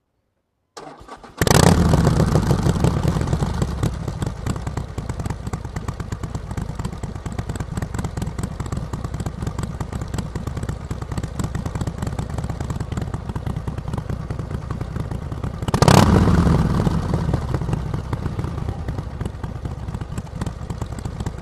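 Harley-Davidson Iron 883's air-cooled V-twin with Vance & Hines Short Shots exhaust, warm-started: the starter turns it over briefly about a second in, it catches loudly and settles to a steady idle. About sixteen seconds in it is revved once sharply, then drops back to idle.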